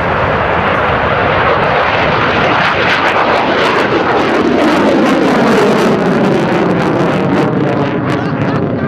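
F-16 Fighting Falcon with its F110 jet engine making a low pass: a loud, steady rush of jet noise that builds to its loudest about five to six seconds in, with the pitch sliding downward as it goes by.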